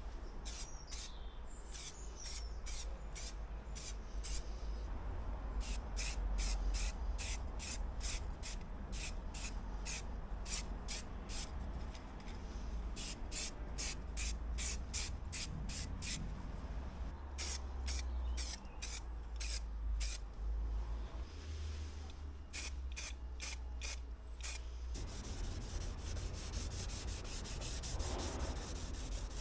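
Aerosol spray can of adhesion promoter or primer being shaken: the mixing ball rattles in quick, even clicks, in several runs with short pauses. Near the end comes a steady hiss of spraying.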